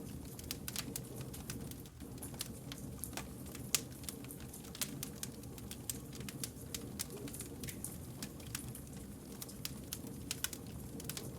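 Wood campfire crackling, with frequent irregular sharp pops and snaps over a steady low rumble of burning.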